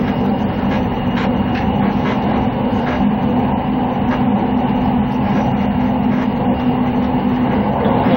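Passenger train running, heard from inside the carriage: a steady rumble with a constant low hum and faint clicks from the rails.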